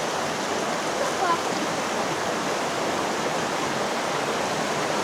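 Steady rush of falling water from a mountain waterfall or stream.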